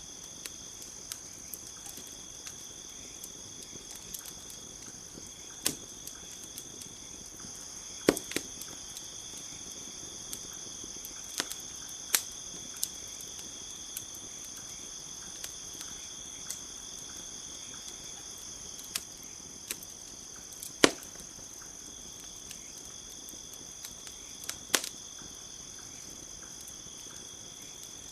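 Crickets trilling steadily, with the sharp, scattered pops and snaps of a crackling campfire; the loudest pops come about 8 seconds in and about 21 seconds in.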